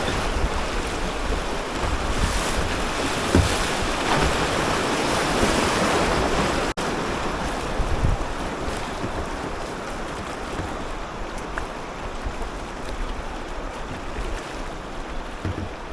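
Rushing water of a small class I rapid around a kayak, with wind buffeting the microphone and a few low knocks. The rush is strongest in the first half and eases toward the end, with an instant's dropout about seven seconds in.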